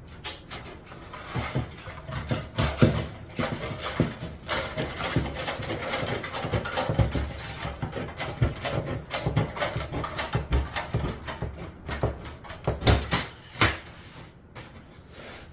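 Sheet metal being worked and handled: a continuous jumble of scrapes, clanks and knocks, with a few sharper bangs about three seconds in and twice near the end.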